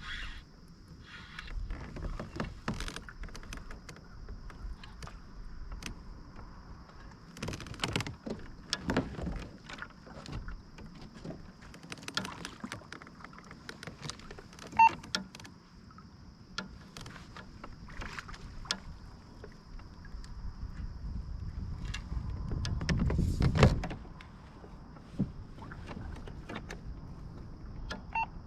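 Irregular knocks, clicks and clatter of handling on a fishing kayak. A faint steady high tone runs underneath. A low rumble builds about two-thirds of the way through and cuts off suddenly.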